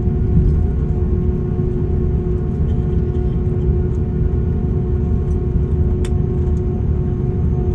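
Cabin noise of an Airbus A340-600 with its Rolls-Royce Trent 500 engines running: a steady low rumble with a steady hum over it, and a single click about six seconds in.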